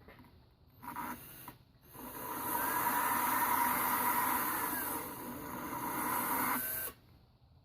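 Small handheld power tool motor running: a brief burst about a second in, then a steady run of about five seconds that cuts off suddenly.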